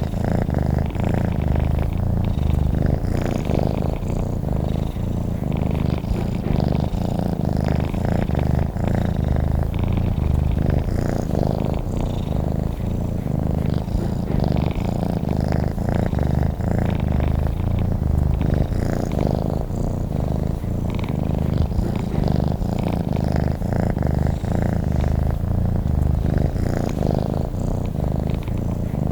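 Domestic cat purring steadily, a continuous low rumbling purr.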